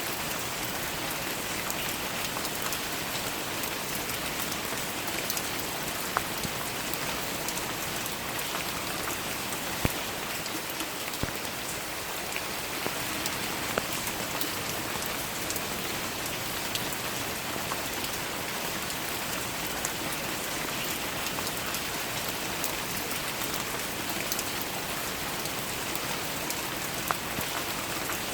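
Steady rain falling, an even hiss with a few sharp, close drop hits now and then.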